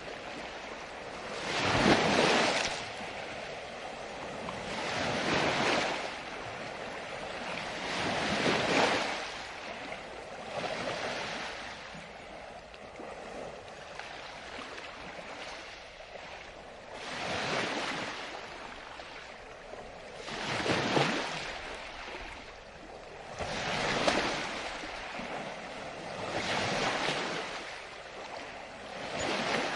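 Ocean waves breaking and washing up on a beach, with a surge every three seconds or so and a calmer stretch in the middle. The first surge is the loudest.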